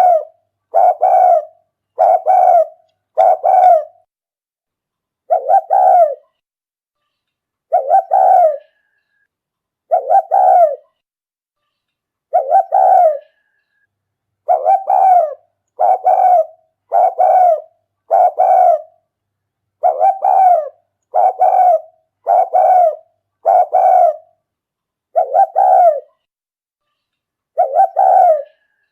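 Spotted dove cooing over and over: about twenty short coo phrases, some in quick runs about a second apart, others separated by pauses of two seconds or more. This is a decoy dove's call, the kind used to lure wild doves.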